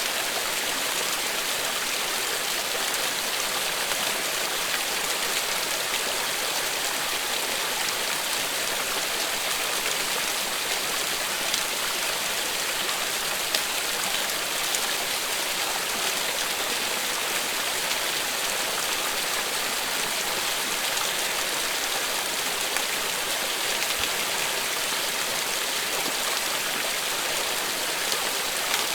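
Steady continuous rain, an even hiss of falling drops with occasional louder individual drop ticks.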